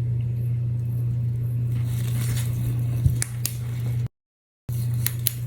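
Faint clicks and taps of a small UV resin bottle being handled while dots of resin are squeezed onto a resin piece, over a steady low hum. The sound cuts out briefly a little after four seconds.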